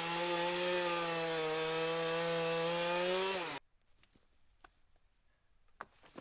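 Chainsaw running at full throttle, held at a steady high pitch while cutting through a downed tree on the trail, then cutting off abruptly about three and a half seconds in. A few faint clicks follow.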